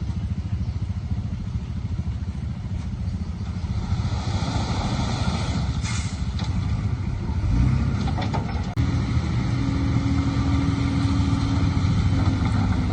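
Heavy diesel engine of earthmoving machinery running with a steady low rumble. About seven and a half seconds in it gets louder and a steady hum joins it as the engine takes more load.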